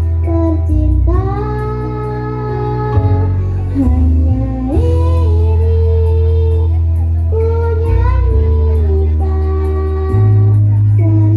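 Children singing a song in long held phrases over instrumental accompaniment with a steady deep bass and some guitar, played through a sound system.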